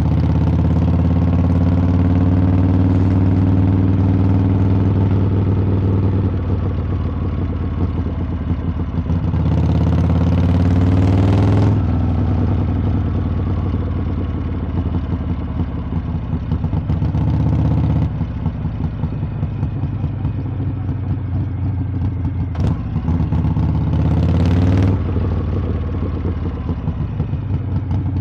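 Harley-Davidson V-twin motorcycle engine running through its exhaust while riding. It pulls up in pitch under throttle several times and drops back each time the throttle closes or it shifts gear.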